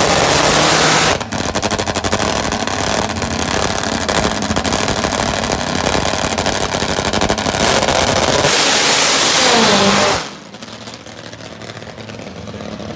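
Nitromethane-burning Top Fuel drag motorcycle engine running at full throttle, very loud, with a short dip about a second in. Near the end its pitch falls, then the sound drops off suddenly to a much quieter engine sound.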